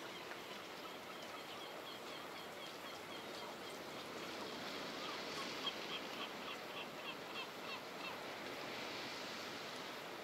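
A small songbird singing a long run of quick, repeated high chirps, about three or four a second, over a steady outdoor background hiss; the chirping stops near the end.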